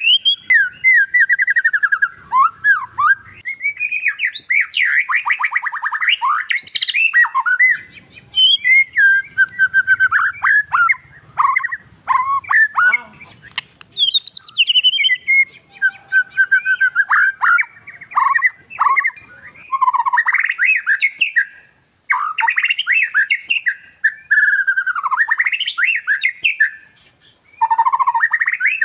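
Oriental magpie-robin (kacer) in full song: a loud, nearly continuous run of varied whistles, rapid trills and sliding notes, broken by only a few short pauses.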